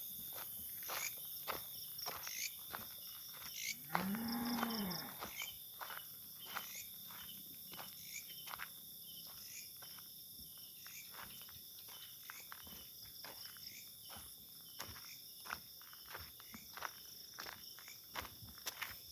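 Insects buzzing steadily, with many short irregular clicks. About four seconds in comes one low animal call, about a second long, that rises and then falls in pitch.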